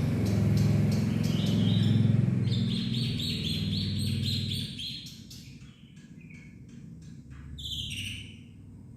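Black-winged starling (jalak putih) singing: sharp clicks, a run of about eight quick repeated notes, and more chirps near the end. A loud low hum underneath stops about five seconds in.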